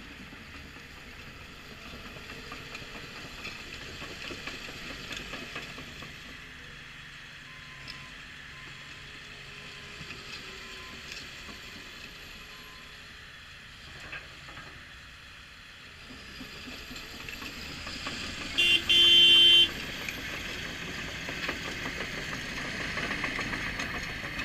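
Caterpillar D6K2 track-type tractor with its diesel engine running, getting louder about two-thirds of the way through. About three-quarters of the way through, one short horn blast lasting about a second is the loudest sound.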